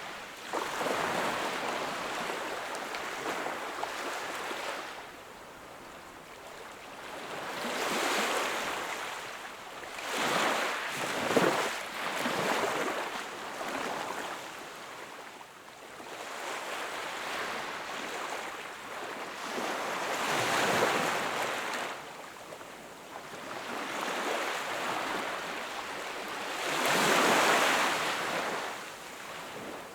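Sea waves breaking and washing onto the shore. The surf swells and fades every few seconds, with several louder surges and the loudest near the end.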